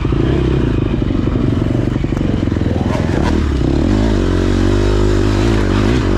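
Dirt bike engine running, its pitch rising and falling as the throttle is worked from about four seconds in, with a few short clattering knocks.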